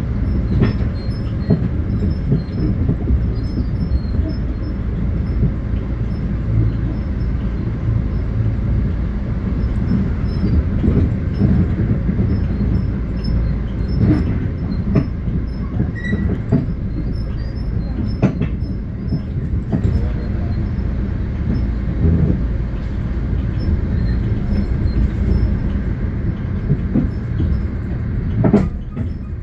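Long Island Rail Road train passing close by: a steady, loud rumble of wheels on rail, with scattered sharp clicks and knocks from the wheels running over the track.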